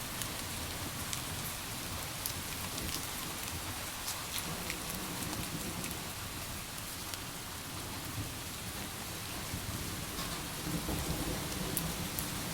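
Steady rain, a dense hiss with the ticks of single drops, while low thunder rumbles in the background and grows louder in the second half, strongest near the end.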